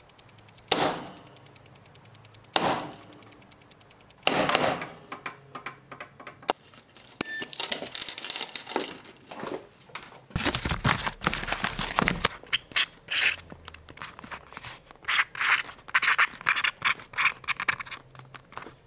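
Rapid, even ticking with three sharp knocks in the first few seconds, then a long run of irregular clattering, clicking and scraping as tools, wires and cardboard are handled on a wooden table.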